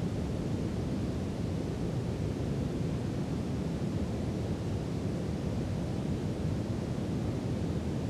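Brown noise played as a sleep noise bed: a steady, deep, even rush, heavy in the low end and soft in the highs, with no changes.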